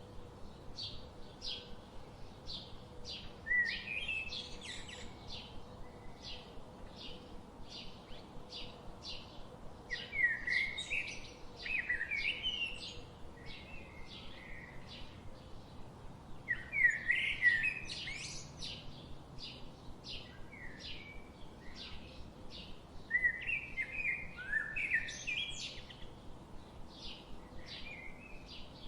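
Birds singing: one repeats a short high chirp about twice a second throughout, while another bird's warbling phrase breaks in four times, louder.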